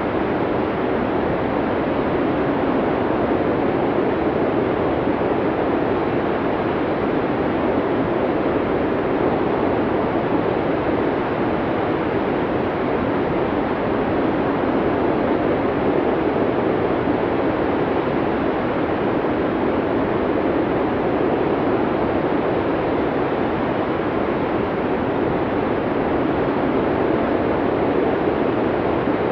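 Blizzard wind as a steady, even rush of noise, fullest in the lower middle range, holding at one level without gusts or breaks.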